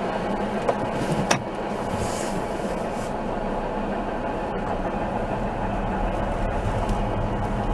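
CSX freight train rolling past, a steady noise of wheels on rail with one sharp click a little over a second in.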